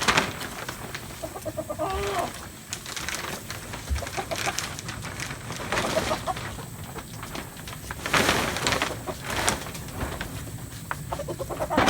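Chickens clucking a few times, softly, amid rustling and crinkling of plastic vapor-barrier sheeting being handled, loudest a little past the middle.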